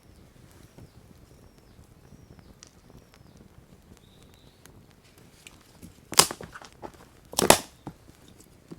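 Wood fire crackling: two loud clusters of sharp pops about a second apart near the end, over a quiet background.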